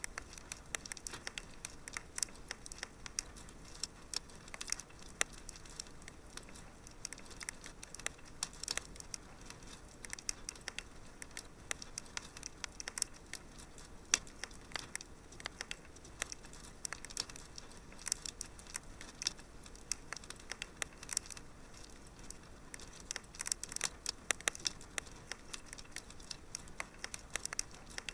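Wood fire crackling in a fireplace: many small irregular pops and snaps, some louder than others, over a soft steady hiss.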